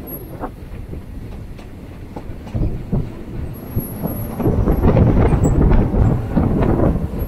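A moving passenger train running along the track, heard from beside the coaches: a steady rumble of wheels on rails with wind rush and occasional clicks over rail joints. It grows louder in the second half.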